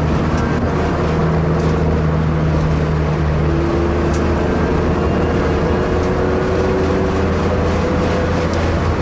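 Car engine running hard at a steady pitch during a track lap, heard from inside the cabin with road and wind noise.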